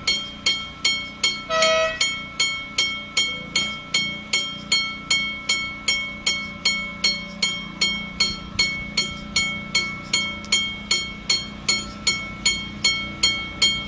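A bell struck rapidly and evenly, about three strokes a second, each stroke ringing at the same pitch and dying away before the next. A short tone with a different pitch sounds about two seconds in, over a steady low hum.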